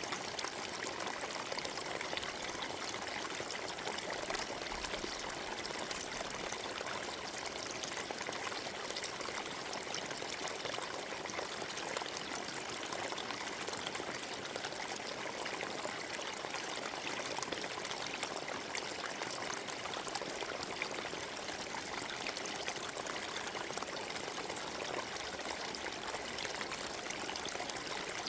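Forest stream flowing over stones, a steady trickling and babbling of water with no change.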